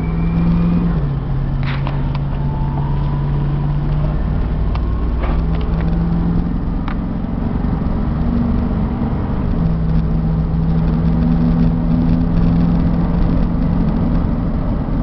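1994 Ford F600 box truck's 7.0-litre gasoline V8 running at highway speed, heard from inside the cab over steady road and wind noise. The engine note drops about a second in, then rises again in steps as the truck gets up toward 60 mph.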